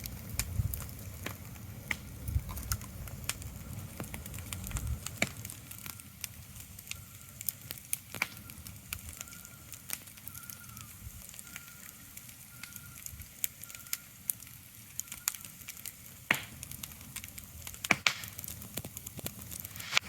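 Irregular crackling with sharp pops over a soft hiss, like a wood fire. A low rumble underlies the first five seconds, and a faint high chirp repeats a few times in the middle.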